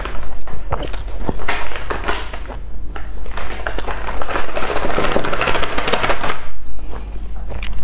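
Close-miked chewing of a mouthful of fried flatbread: many small wet clicks and crunches, growing into a dense spell of crunching about halfway through.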